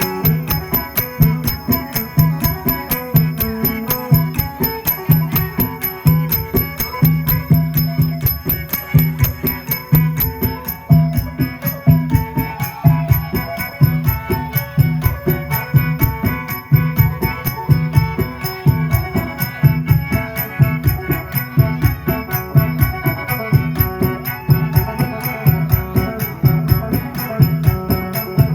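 Isan phin, a plucked lute, playing a fast, steadily pulsing folk tune over a low note struck again and again: traditional music for a mo yao spirit-healer ceremony.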